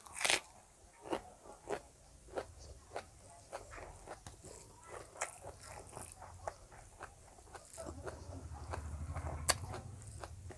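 Close-miked eating: a loud bite into a pakora fritter at the start, then chewing with many short crunches and wet mouth clicks. A low rumble joins in near the end.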